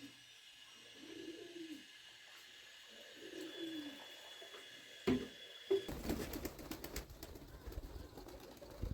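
Pigeon cooing: a few soft, low, arched coos in the first few seconds. About five seconds in come two knocks, followed by a rustling, crackling noise.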